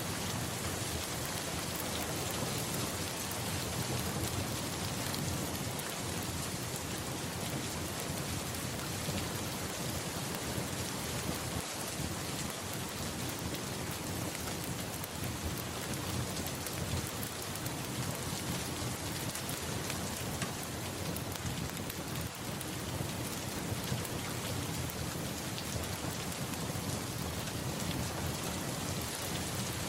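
Steady heavy rain falling, with a low rumble of thunder beneath it.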